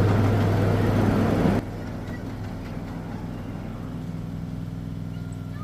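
Gasoline engine of a miniature ride-on train locomotive running with a steady low hum. The engine powers the train's hydraulic drive. About a second and a half in, the sound drops suddenly to a quieter, steady hum.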